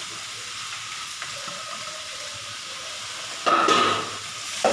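Onions and spices frying in oil in a pan, a steady sizzle. About three and a half seconds in, a much louder burst lasts about half a second, with a shorter one near the end.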